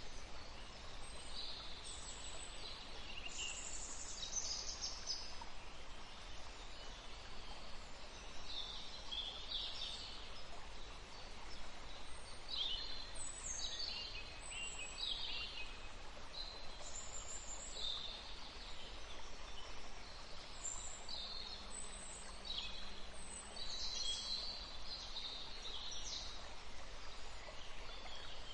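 Several songbirds chirping and calling in a forest, short high calls overlapping one another throughout, over a steady faint background hiss.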